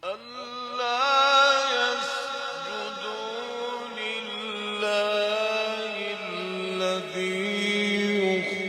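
A man's voice reciting the Quran in melodic tajweed style, drawing out long ornamented notes that waver and slide in pitch. It begins suddenly out of near silence.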